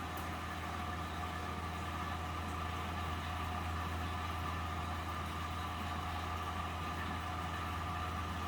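Miele W761 front-loading washing machine running empty on a 95° cotton programme: a steady low motor hum with a fainter, higher whine held throughout.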